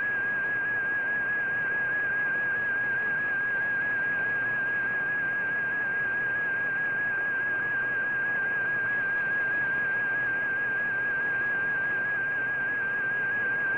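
A shortwave digital-mode data signal: one steady, high tone with a slight regular wobble, over even radio hiss.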